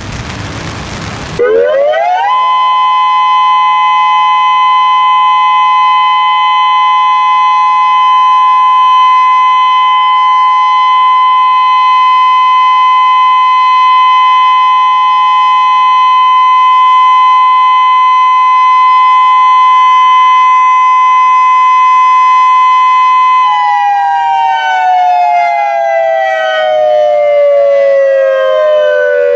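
Federal Signal Modulator 6024B outdoor warning siren sounding its steady alert tone during a test: after a second or so of hiss it rises quickly to a high, steady pitch, holds it for about twenty seconds, then winds down in a falling glide near the end.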